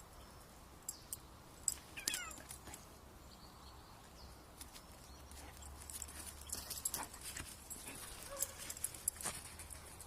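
A dog and a cat tussling: scattered scratching and knocking, with one short wavering cry about two seconds in and a busier run of scrapes and clicks near the end.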